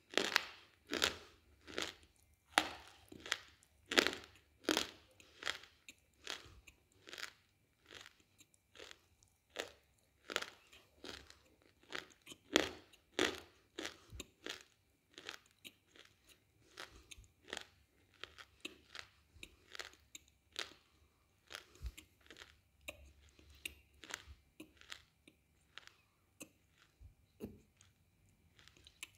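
A person biting and chewing a hard, brittle mineral piece eaten as pica, such as slate. There is a long run of sharp crunches, loud and frequent at first, then softer and sparser from about halfway as the piece is ground down.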